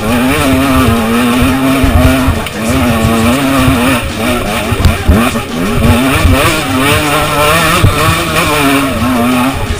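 KTM 125 EXC two-stroke enduro engine ridden hard, the revs rising and falling with the throttle, with brief drops in revs every few seconds.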